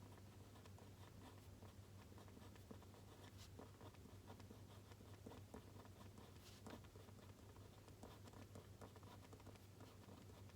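Faint scratching and light tapping of a pen writing on paper, in irregular small strokes over a steady low hum.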